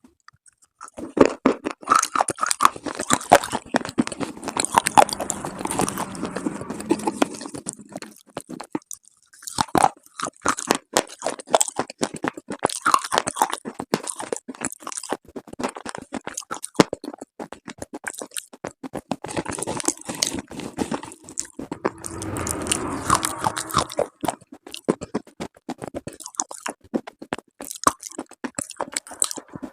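Close-up, crisp crunching of dry slate and chalk pieces: dense crackling in runs, starting about a second in and pausing briefly near the middle.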